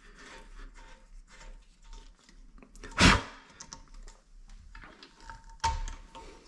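Hard plastic toilet-seat and hinge parts being handled and fitted: small clicks and rattles, with two sharp knocks, the louder about three seconds in and another about two and a half seconds later.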